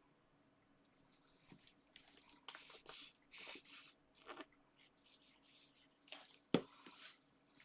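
Paper and craft materials being handled at a work table: a few short hissy rustles, then a single sharp tap about six and a half seconds in.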